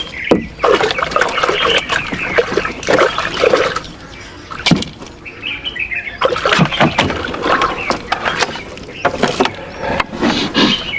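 Water splashing and sloshing in irregular bursts, with sharp knocks, as a trap or catch is handled in the lake. Birds chirp in the background.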